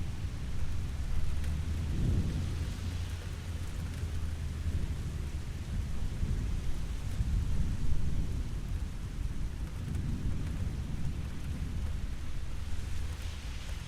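Steady rain falling, under a low rolling rumble of thunder that swells and fades, loudest about two seconds in and again about eight seconds in.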